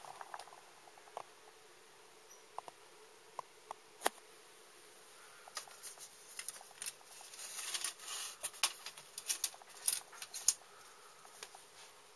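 Light metallic clicks and rattles from a tin toy, scattered at first with one sharper click, then a quick crackling run of clicks for several seconds in the second half.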